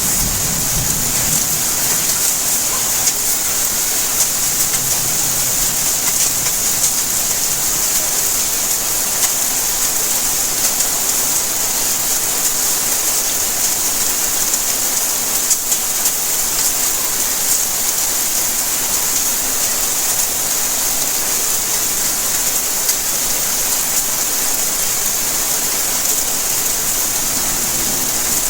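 Steady rainfall: an even hiss with scattered ticks of drops striking surfaces. A low rumble of thunder dies away in the first couple of seconds.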